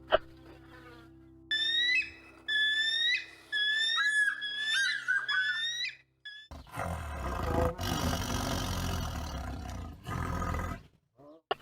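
Animal calls: a run of high, gliding whistle-like calls, then after a short break a long, loud, harsh roar.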